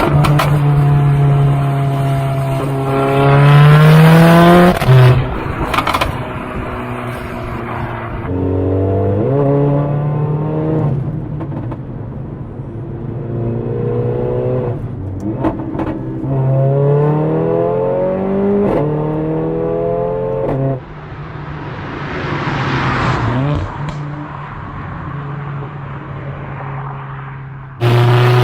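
Mercedes-AMG A45's turbocharged 2.0-litre four-cylinder accelerating hard through the gears: the engine note climbs steeply, then drops at each upshift with a sharp crack from the exhaust, several times over. About three-quarters of the way through the note gives way to a rushing sound before a loud steady engine tone near the end.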